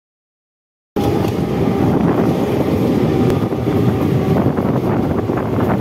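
Silent for about the first second, then cutting in suddenly: Mumbai Central Railway EMU local trains running side by side at speed, a loud rumble with rattling and clicks from the wheels and cars, and wind buffeting the microphone.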